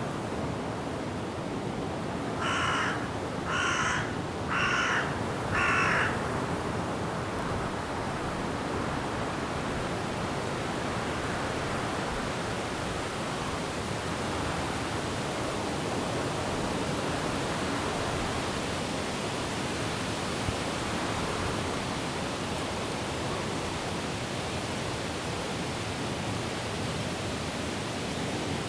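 Steady rushing noise of wind through trees and falling rain. A bird calls four times in a row, about a second apart, a few seconds in.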